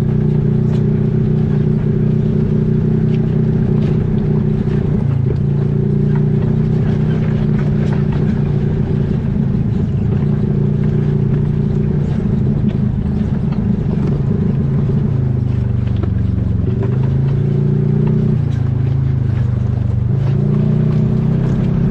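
A vehicle engine running steadily. Its pitch dips and comes back up a couple of times in the last several seconds.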